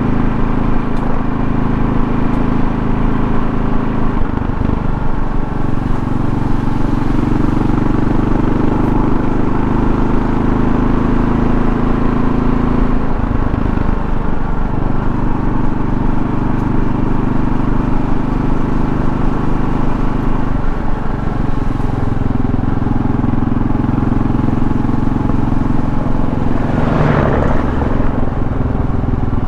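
2024 Kawasaki KLR650's single-cylinder engine running steadily under way, with road and wind noise. The engine note shifts three times, about 4, 13 and 21 seconds in, and a brief swell of noise comes near the end.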